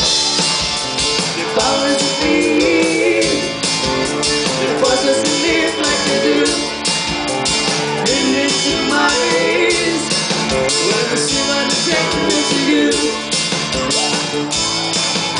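Live band playing a rock song with electric guitar and drums, with a singer's voice.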